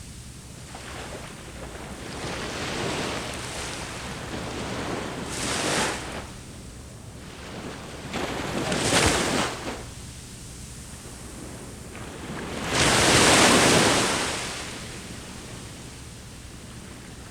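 Ocean waves breaking on the shore and washing back, in several surges, the loudest about two-thirds of the way through. Light wind rumbles on the microphone.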